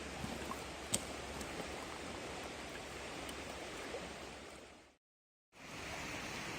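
A river rushing steadily, with a single sharp crack about a second in. The sound fades out just before five seconds; after a short silence a similar rushing comes back, brighter and hissier.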